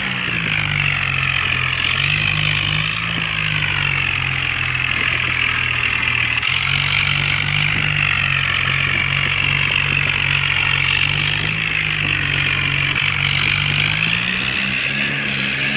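Toy Farmtrac 60 tractor running: a steady engine-like drone with a high, wavering motor whine. The pitch rises briefly at the start and again near the end.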